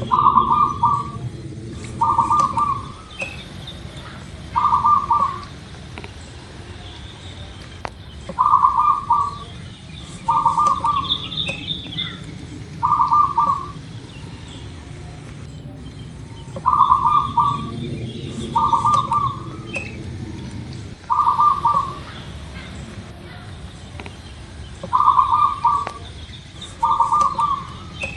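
Zebra dove cooing: phrases of three short coo notes at the same pitch, a phrase about every eight seconds. Fainter high chirps from another small bird come between the phrases, over a low steady rumble.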